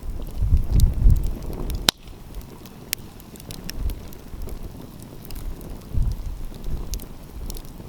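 Wood fire crackling, with scattered sharp pops, the loudest about two seconds in. Gusts of wind buffet the microphone as low rumbles, strongest in the first second and again around six seconds in.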